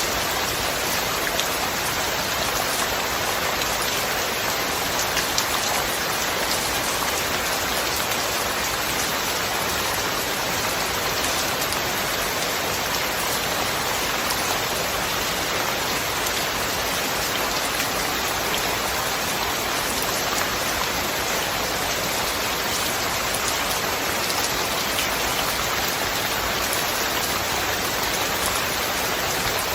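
Steady rain falling: an even, unbroken hiss of rain on surfaces, with faint separate drop ticks scattered through it.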